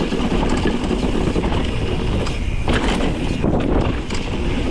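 Mountain bike descending a rough, rocky trail: tyres crunching over rock and dirt, the bike rattling with sharper clatters about two-thirds of the way in, and wind buffeting the microphone.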